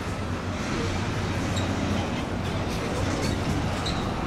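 A vehicle engine running steadily, a low even rumble with no revving.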